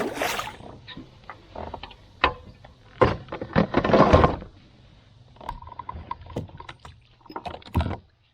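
Handling noises aboard a fishing kayak: scattered knocks and clicks, with a rushing noise at the start and a longer one about three to four seconds in.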